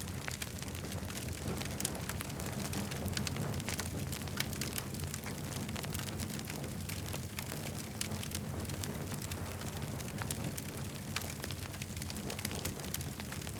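Campfire crackling and popping: many sharp, irregular snaps over a steady low rumble of burning.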